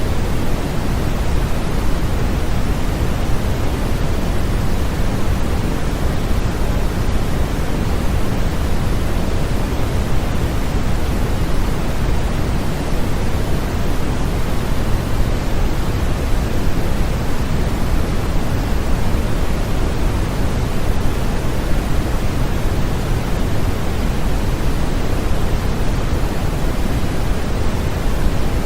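Continuous sleep-aid noise for babies: a steady, even hiss with no change, deeper than pure white noise, its weight in the low end.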